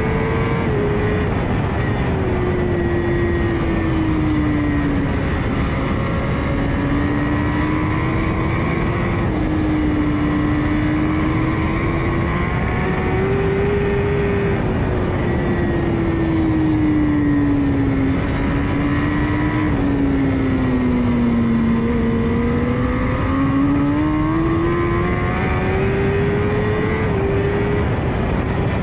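Kawasaki ZX-10R's inline-four engine running under load on track, heard from onboard: its pitch climbs and falls slowly as the bike accelerates and slows through a series of corners, with small steps at the gear changes, over a constant rush of wind and road noise.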